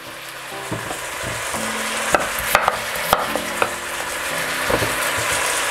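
Vegetables frying in oil with a steady sizzle that grows slowly louder, and a few sharp taps of a knife on a wooden chopping board as peeled potatoes are cut.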